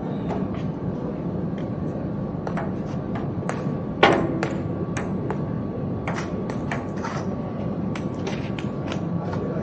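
Table tennis rally: the ball clicking off paddles and the table about twice a second, with one louder knock about four seconds in.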